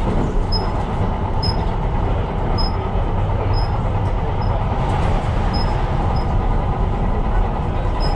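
Tyne & Wear Metro train running along the line: a steady rumble of wheels on rails and a running train. Short high chirps recur about once a second throughout.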